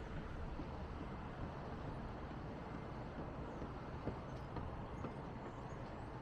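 Steady low rumble of city traffic, with a single faint tick about four seconds in.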